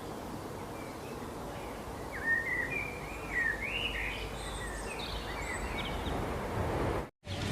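A bird calling in a quick run of short chirping notes that slide up and down in pitch, over a steady outdoor background hiss.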